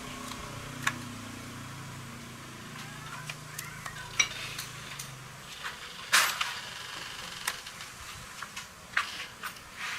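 Scattered light clicks and clatter of hard objects being handled, with one louder clunk about six seconds in, over a low hum that fades out about halfway through.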